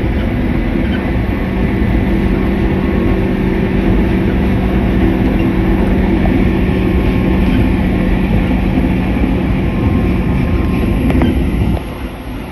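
JR West 103 series 3500 electric train running at speed, heard from the driver's cab: a loud, steady drone of traction motors and wheels on the rails, with a low hum held throughout. The drone drops suddenly near the end.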